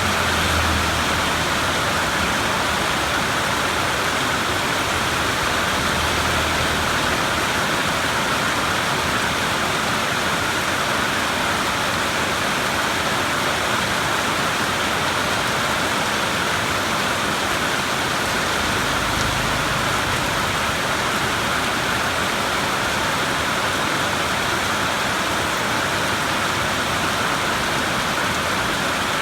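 Steady rain of a thunderstorm pouring down in an even hiss, with a few faint, low rumbles of distant thunder underneath.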